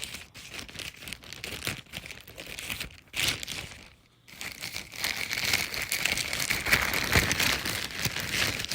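Parcel packaging crinkling and rustling as it is handled and opened by hand, with a brief pause about four seconds in.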